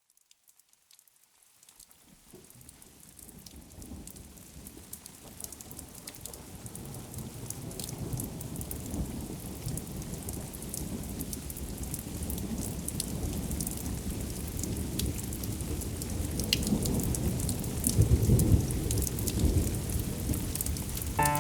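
Heavy rain fading in from silence and growing steadily louder, with scattered drops ticking, and a low rumble of thunder swelling near the end.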